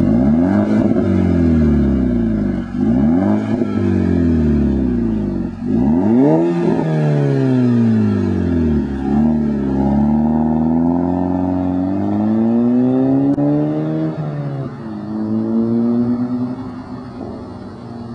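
Volkswagen Mk5 GTI's 2.0-litre turbocharged four-cylinder running through a 3-inch turbo-back exhaust, its revs rising and falling again and again. Near the middle it climbs for several seconds, then drops off suddenly and settles lower.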